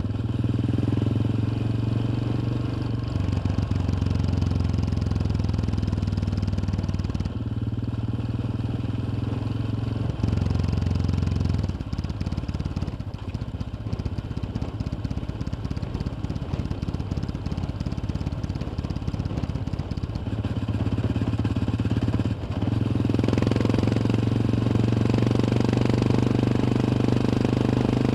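Yamaha XT 600's single-cylinder four-stroke engine running while the bike is ridden. Its note changes abruptly several times as throttle and gears change, and it drops lower and quieter for a stretch in the middle before picking up again near the end.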